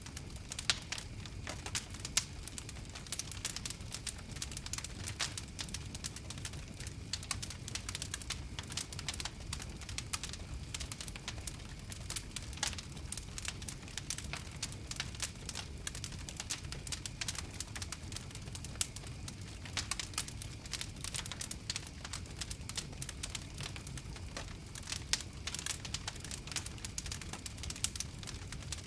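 Fire crackling: a dense, irregular stream of small sharp pops and snaps over a low steady rumble.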